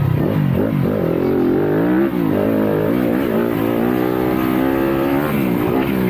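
Yamaha YZ250FX single-cylinder four-stroke dirt bike engine running under load, its pitch rising and falling repeatedly with the throttle, with a drop about two seconds in and again about five seconds in.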